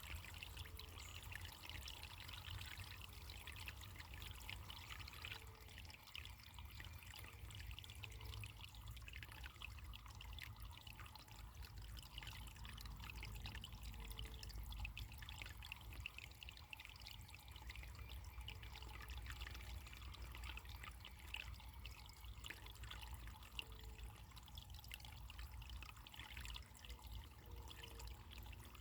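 Running water of a small stream, trickling steadily and faintly.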